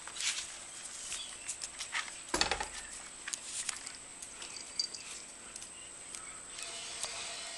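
Puppies moving about, their paws and claws pattering and scuffling in scattered small clicks, with one louder scuffle a little over two seconds in.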